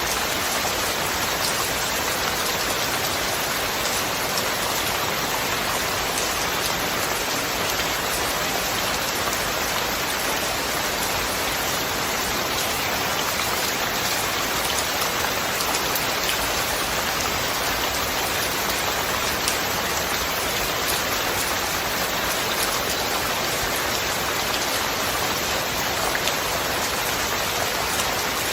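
Steady rain falling, an even, dense hiss with a few single drop ticks standing out now and then.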